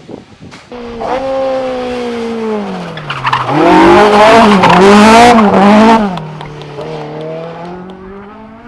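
Race car engine running hard: its pitch falls as it comes off the throttle, then from about three and a half seconds in it gets much louder with the revs rising and dipping several times amid a loud rush of noise, likely tyres scrubbing, before easing back to a steadier, quieter drone.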